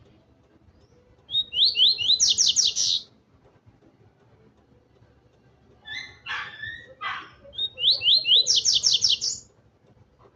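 Male double-collared seedeater (coleiro) singing two loud, fast phrases of rising whistled notes a few seconds apart, with a few rougher, lower notes between them.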